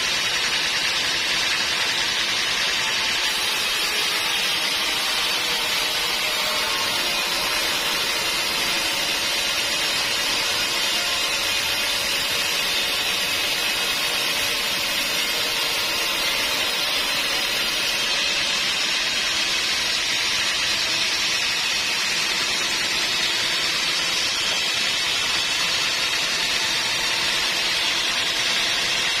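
Sawmill saw running steadily, a even hiss with a faint hum beneath it.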